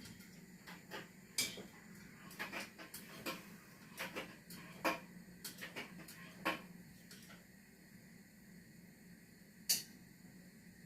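Faint steady low hum with scattered light clicks and knocks of household clatter, coming often in the first half, then a quieter stretch and one sharper knock near the end.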